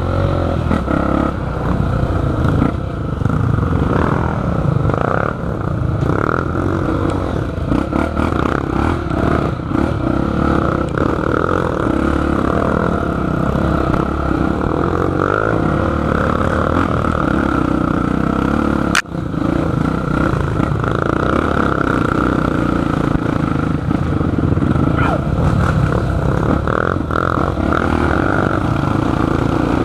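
Dirt bike engine running with changing throttle, with clattering and scraping over rough ground. A sharp click with a brief dropout about two-thirds through.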